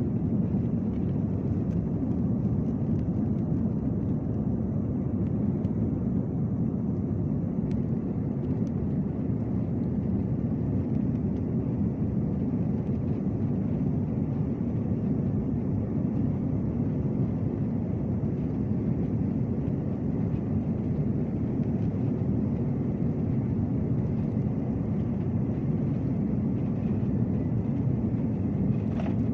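Steady low rumble of an airliner's jet engines, holding at an even level without rising or fading.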